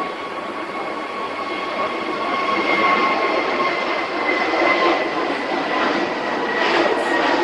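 Airbus A321neo jet engines (CFM LEAP-1A turbofans) whining with two held tones over a rushing noise, the tones sinking slightly in pitch as the sound grows louder.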